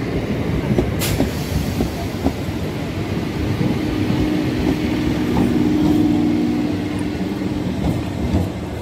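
EMU electric local train rolling past along the platform: a steady rumble with the clack of wheels over rail joints. There is one sharp click about a second in, and a steady hum rises in the middle few seconds before fading.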